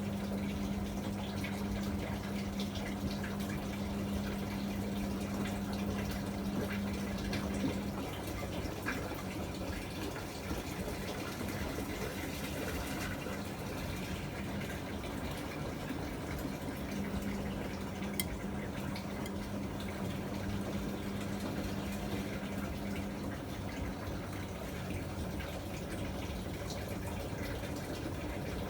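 Miele MedicWash W2585 washing machine running, with water rushing and splashing inside it. A steady low hum runs alongside, stops about eight seconds in, and comes back for several seconds a little past halfway.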